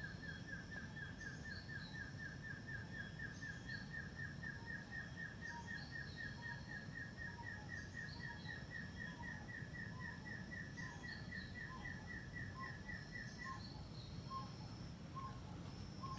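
Forest birds calling over a low background hiss: a rapid, even series of notes runs on and stops about three-quarters through, while higher calls repeat every second or so and lower notes come faster in the second half.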